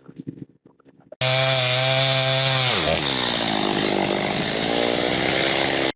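A chainsaw starts suddenly about a second in, running at high revs, then drops in pitch near the middle as the chain bites into a log and the engine works under load. It cuts off abruptly at the end.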